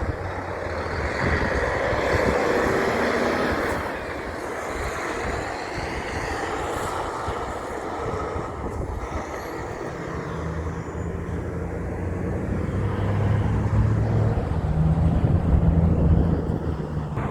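Heavy traffic rumble, then a heavy truck's diesel engine comes in about ten seconds in. Its deep note steps up in pitch and grows louder as the truck approaches under power.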